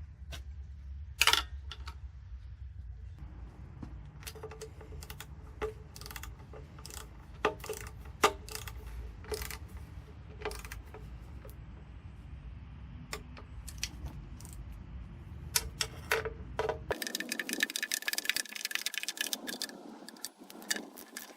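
Scattered sharp metallic clicks and clinks of hand tools and engine parts being handled, over a steady low hum. The hum cuts off suddenly about seventeen seconds in, and the clinks go on over a different, hissier background.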